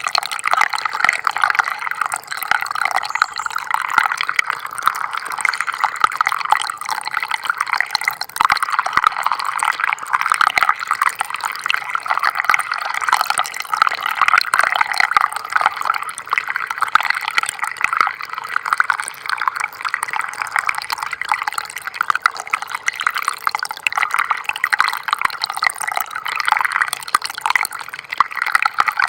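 Small stream of water trickling and splashing steadily, with a busy patter of many small drips and splashes.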